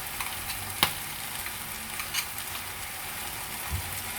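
Chicken coated in spice paste sizzling as it fries in a pan, with a few sharp clicks of a spoon against the pan as it is stirred.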